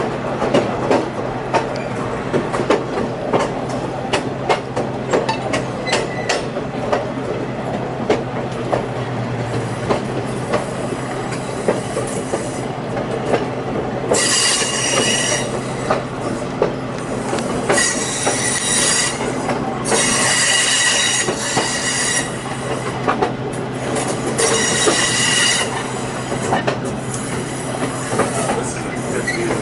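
Excursion train rolling, with a steady low hum and frequent clicks of the wheels over the track. From about halfway, the wheel flanges squeal high-pitched in repeated stretches of a second or more, as the cars take curves.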